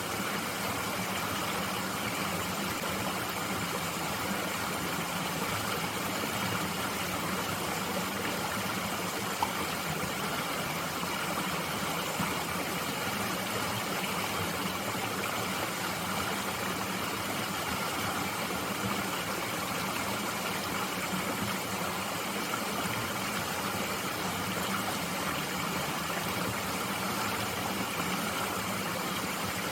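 Mountain stream flowing steadily over rocks, with one brief tick about nine seconds in.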